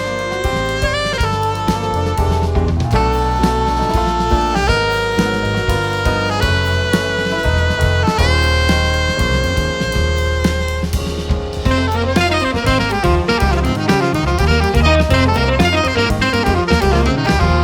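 Live jazz band with a saxophone playing the lead over bass and a drum kit. The saxophone holds long notes, some sliding into pitch, then breaks into quicker runs of short notes about twelve seconds in.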